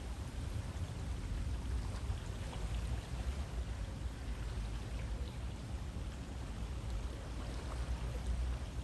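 A river flowing: a steady, even rush of water, with an unsteady low rumble underneath.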